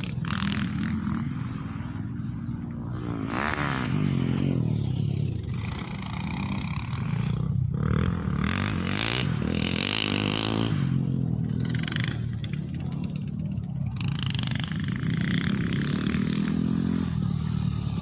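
Engine of an off-road vehicle running under load, its revs rising and falling, with bursts of rattling and scraping noise over it.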